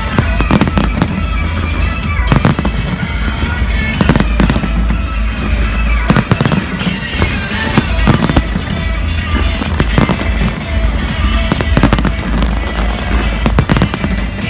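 Fireworks exploding in quick, irregular succession, with many loud bangs, while music plays alongside.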